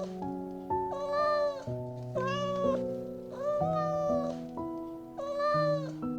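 An animal calling four times, each call a short pitched cry under a second long, about a second and a half apart, over soft background music with sustained notes.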